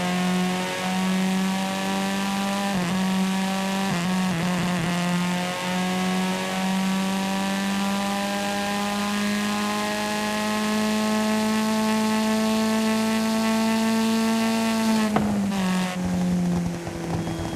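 Video-game car engine sound, its pitch climbing slowly and steadily as the car accelerates, then dropping sharply about fifteen seconds in, like a gear change or the throttle lifting.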